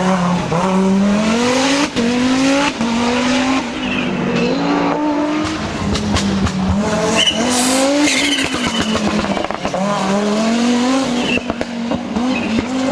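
Audi Quattro S1 Pikes Peak race car's turbocharged five-cylinder engine revving hard and dropping back again and again, about every second and a half, with sharp crackles and pops from the exhaust.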